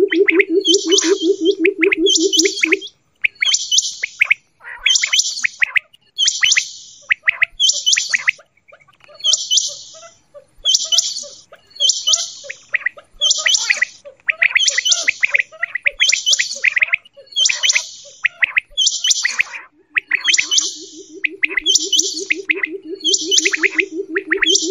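Quail calling: a high, sharp chirping call repeated about once a second. A low, rapidly pulsed trill runs under it at the start, stops after a few seconds, and comes back near the end.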